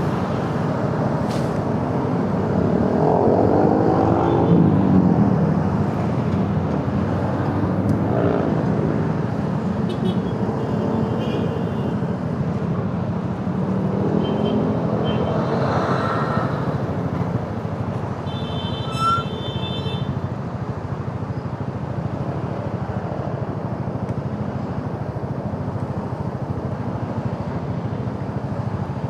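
Riding a motorcycle through city traffic: a steady rumble of engine, tyres and wind, with the engine pitch rising and falling a few seconds in. Short high tones sound about a third of the way in and again just past the middle.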